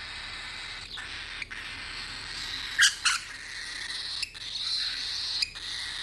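Cockatiel vocalising steadily, with two short, loud squawks close together about three seconds in.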